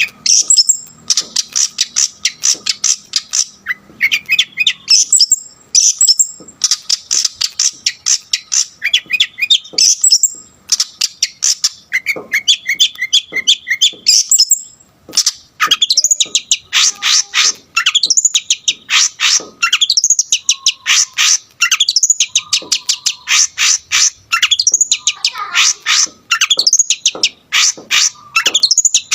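Long-tailed shrike (cendet) singing loudly, a rapid, almost unbroken run of chattering, scratchy and whistled notes with short breaks, full of phrases mimicked from other birds.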